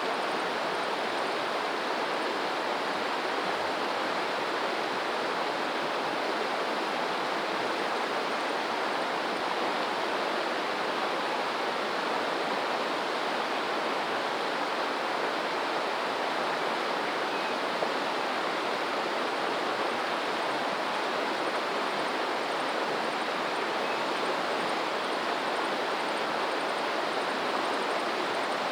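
Running water rushing steadily, the continuous sound of a stream, with no rise and fall of waves.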